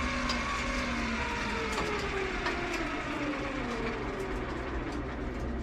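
Electric sieve-adjustment actuator motor in a combine's cleaning shoe running as the sieve is driven down, its whine slowly falling in pitch throughout.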